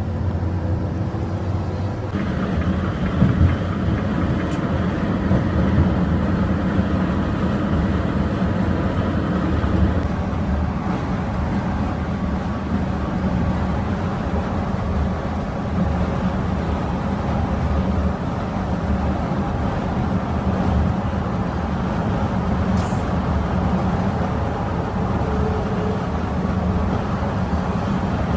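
A bus running at speed: a steady engine rumble mixed with road noise, growing heavier about two seconds in.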